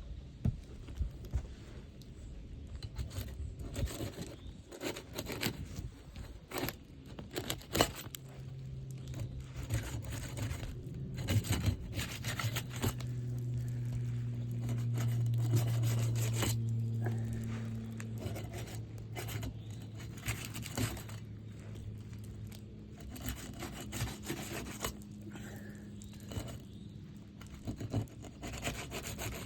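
Scraping, rubbing and tearing as asphalt roof shingles are worked loose with a tool, with scattered knocks. A low hum swells in the middle and fades away.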